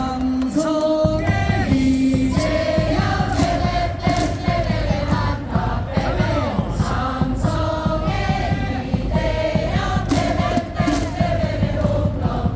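Baseball crowd in the stands singing a cheer song in unison with amplified stadium music, over a steady beat.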